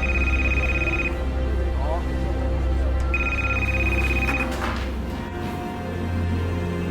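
Telephone ringing twice with a pulsing, trilled electronic ring, each ring a little over a second long and about three seconds apart, over background music with a low bass drone.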